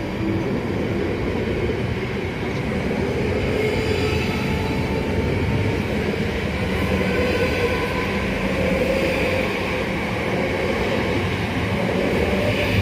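South Western Railway passenger train running through the station: a steady rumble of wheels on rail, with a faint whine that slowly shifts in pitch.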